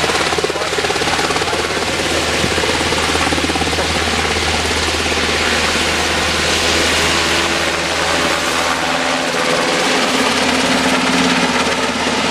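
Helicopter flying close by: a steady loud rotor chop and engine noise, its deepest hum dropping away about three-quarters of the way through.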